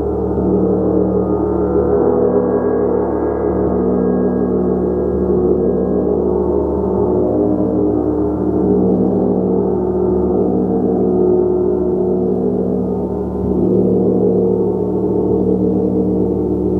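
Gong played continuously in a sustained wash: many overlapping tones hum and shimmer, swelling and fading slowly, with the sound concentrated in the low and middle range and no distinct single strikes.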